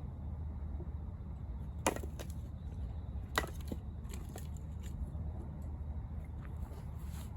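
An axe splitting firewood: two sharp chops about a second and a half apart, followed by lighter knocks and clicks of wood, over a steady low rumble.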